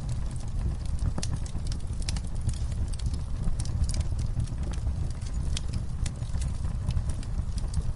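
Wood fire burning: a steady low rumble of flame with many sharp, irregular crackles and pops.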